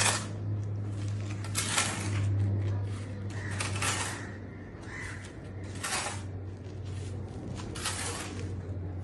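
Hand-tool work on masonry: sharp scrapes and knocks about every two seconds, over a steady low hum.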